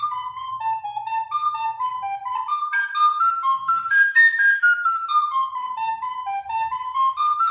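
Solo recorder playing a quick tune of short, stepwise notes. The tune is written for teaching a canary to sing. The line dips, climbs to a high note about halfway through, falls again, then climbs near the end.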